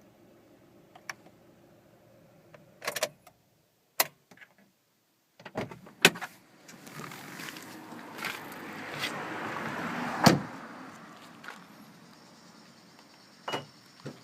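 Honda Life's 658cc P07A three-cylinder engine idling, then switched off about three seconds in. Clicks and clunks of the driver's door follow, then rustling as the driver climbs out, and the door is shut with a loud bang about ten seconds in. A few more clicks come near the end.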